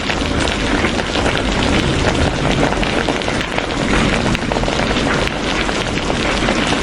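Steady heavy rain falling on a surface, a dense even hiss with many fine drop ticks.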